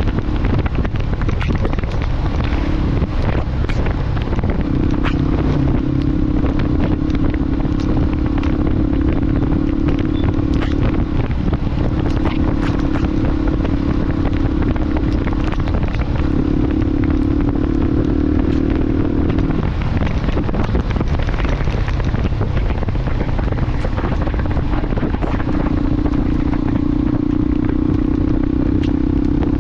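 Motorcycle engine running at road speed under heavy wind rush, its steady note fading out and coming back several times and shifting pitch around halfway through, with scattered crackles throughout.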